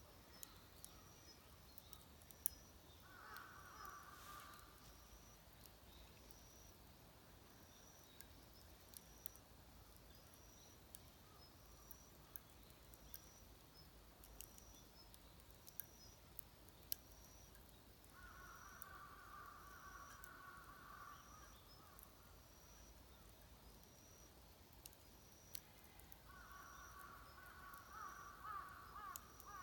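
Faint ambience with crows cawing in three bouts of repeated calls: briefly a few seconds in, again past the middle, and from near the end. A faint high chirp repeats about once a second throughout, and there are scattered faint clicks.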